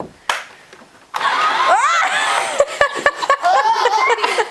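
Mouth-made airplane noises from people's voices, mixed with children squealing and giggling, starting suddenly about a second in with swooping rises and falls in pitch.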